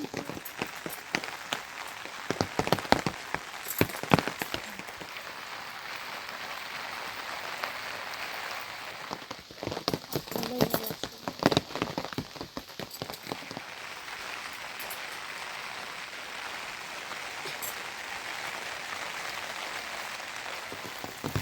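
Steady rain falling on surfaces, with clusters of sharp taps and knocks in the first few seconds and again about halfway through.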